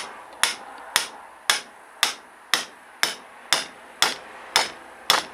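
Steady hammer blows, about two a second, each a sharp strike with a short ring, knocking apart a removed drum-brake wheel cylinder.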